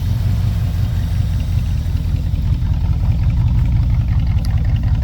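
1965 Chevrolet C10 pickup's engine idling steadily with a low, even rumble.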